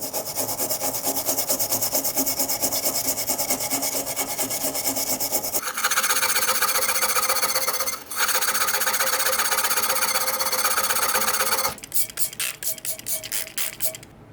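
Tool work on corroded brass: a fast, continuous mechanical rasping that changes pitch about halfway through, then gives way to separate scraping strokes about four a second before stopping near the end.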